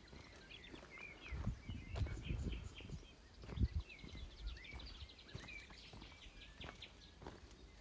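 Small songbirds chirping and twittering continuously, with a cluster of low thuds and rumbles in the first half, the loudest just past the middle.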